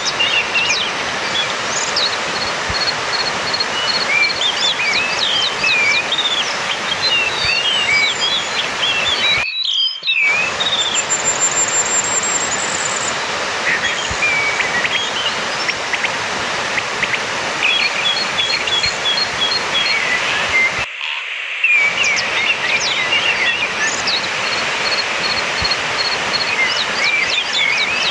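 Orange-headed thrush singing: a string of varied whistled phrases and quick runs of repeated high notes, over a steady background hiss. The recording drops out briefly twice, about ten seconds in and about twenty-one seconds in.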